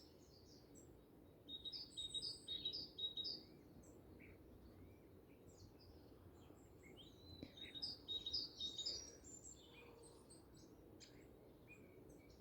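Small birds chirping and twittering: two spells of quick, high chirps, the second about halfway through, with scattered single calls between, over a faint steady hiss.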